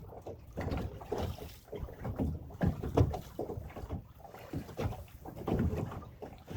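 Water slapping and lapping against the hull of a small boat in choppy water, in uneven surges with wind noise; the strongest slap comes about three seconds in.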